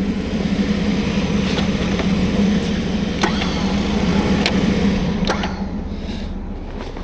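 Vehicle engine idling steadily, rising a little in level through the middle, with a few sharp clicks scattered over it.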